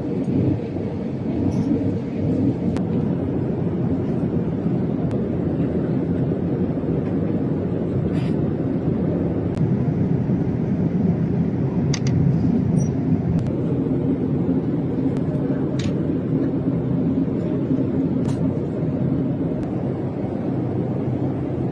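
Steady low rumble of airliner cabin noise inside a Boeing 787-9 in flight, with a few faint clicks.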